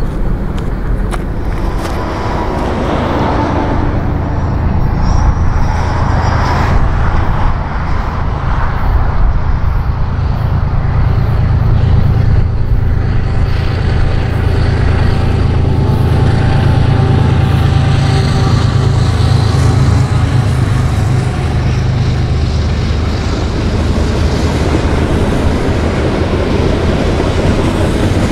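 Diesel freight train passing, its locomotives giving a steady low engine drone.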